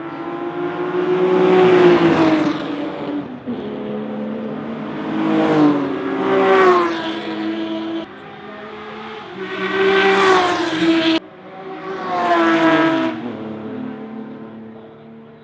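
Historic GT racing cars passing at speed one after another, about five times. Each engine note swells and then drops in pitch as the car goes by.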